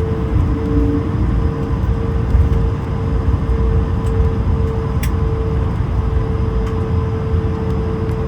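Cabin noise inside an Airbus A220: a steady low rumble of airflow and Pratt & Whitney PW1500G geared turbofans, with a steady hum and a faint tick about five seconds in.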